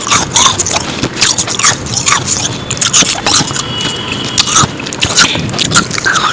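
Ice being bitten and chewed close to the microphone: loud, irregular crunching and cracking, several sharp cracks a second.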